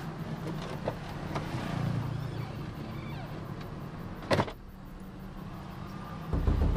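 Car engine running, heard from inside the cabin as a steady low hum, with a few light clicks and one sharp knock about four seconds in.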